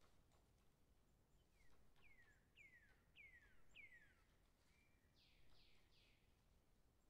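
Faint bird song: a run of five whistled notes, each sliding down in pitch and about half a second apart, followed by three quicker, higher falling notes.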